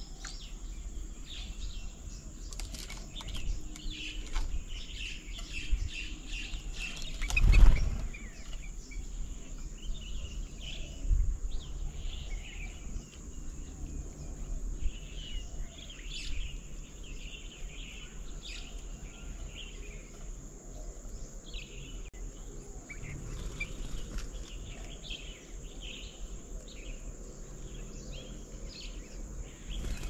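Small birds chirping and calling over and over in quick short notes, with a brief loud rustling sound about seven and a half seconds in.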